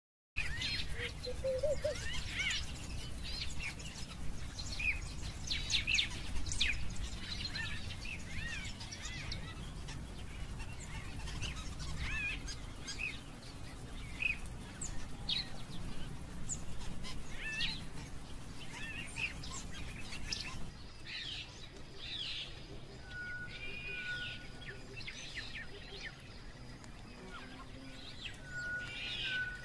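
Wild birds chirping and calling in the bush, many short, quick calls one after another, over a low steady rumble that stops about two-thirds of the way through.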